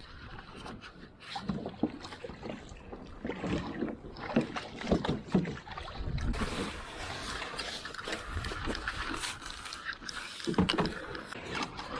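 Choppy water slapping and knocking against a kayak hull in irregular strokes; about halfway through a steady hiss joins in.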